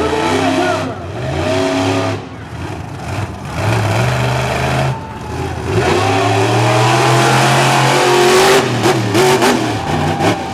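Monster truck engine revving hard in repeated surges, each rising and falling back. A rapid run of sharp cracks comes in near the end.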